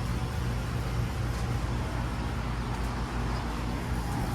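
Outdoor heat pump and air-conditioner condensing units running: a steady low compressor hum under a wash of condenser-fan noise.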